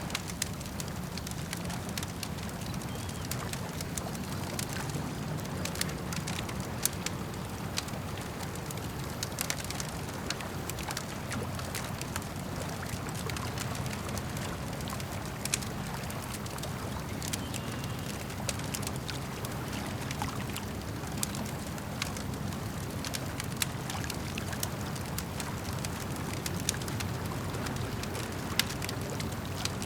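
Campfire crackling with frequent sharp pops and snaps over a steady low wash of lake water lapping.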